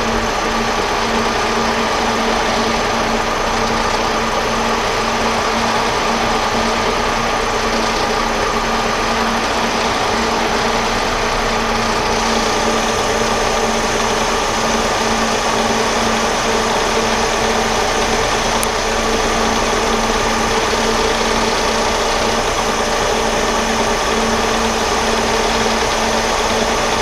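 Metal lathe running steadily at about 1,000 RPM while taking a turning cut in steel, with a steady whine from the machine's drive over the noise of the cut.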